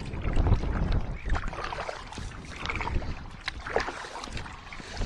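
Canoe paddle strokes in flat calm water: watery splashes and drips about once a second, over a low rumble of wind on the microphone.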